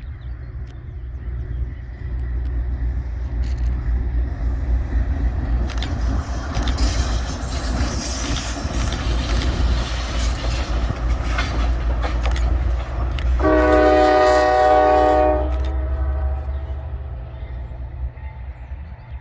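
A train rolling by with a steady low rumble from the locomotive and wheels. About 13 seconds in, the locomotive's air horn sounds one blast of about two seconds, a chord of several tones that lingers briefly as it dies away.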